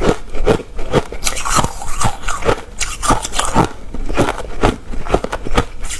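Close-up biting and chewing of hard refrozen crushed ice: a steady run of sharp, loud crunches, about two to three a second.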